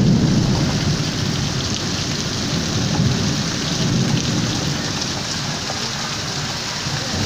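Heavy, wind-driven thunderstorm rain pouring steadily, with a low rumble that swells at the start and again a few seconds in.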